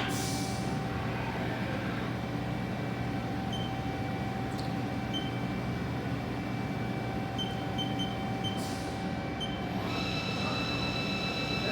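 Haas DS-30SSY CNC lathe running, a steady machine hum with several steady tones and a few short high pips in the middle. About ten seconds in, a new set of higher steady tones starts.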